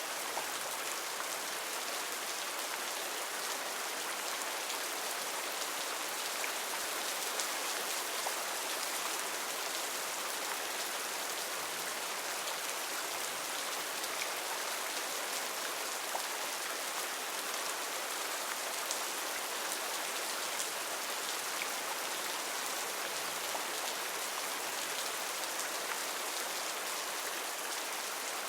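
Heavy rain falling steadily on rainforest foliage, a dense even hiss of drops with many small pattering ticks.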